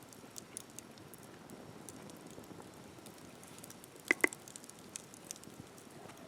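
Campfire crackling, with small snaps scattered through a steady hiss, and two sharper clicks in quick succession about four seconds in.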